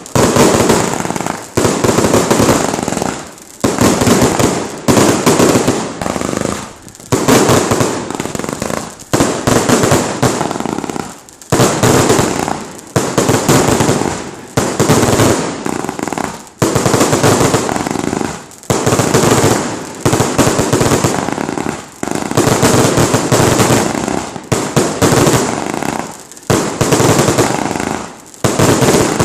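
A 225-shot consumer firework cake firing loud volley after volley, roughly every one and a half to two seconds, each burst breaking into a dense crackle.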